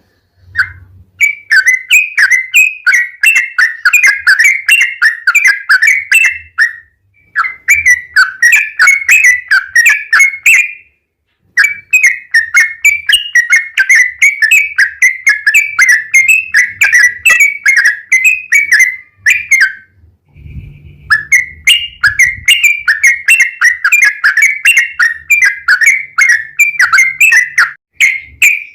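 Yellow-vented bulbul (trucukan) singing its long rapid repeated song: runs of quick, bright chattering notes, about three a second, in four long phrases with brief pauses between them.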